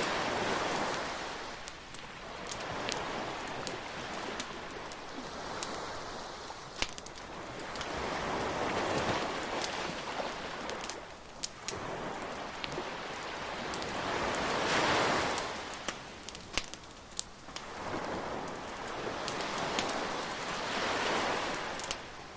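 Surf breaking and washing ashore in slow swells every few seconds, with sharp crackles and pops from a burning bonfire scattered through it.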